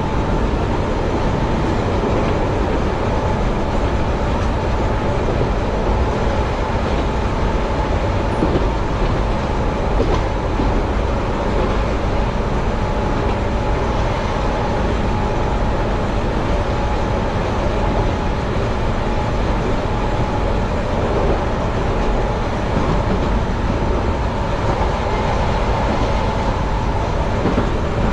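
Keihan Ishiyama-Sakamoto Line electric train running at speed, heard from the driver's cab: a steady rumble of wheels on rail with a faint steady tone above it and a few light clicks over the rails.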